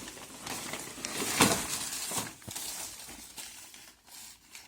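Scrapes, rustles and clicks of old objects being handled and moved among debris, with one louder knock about a second and a half in.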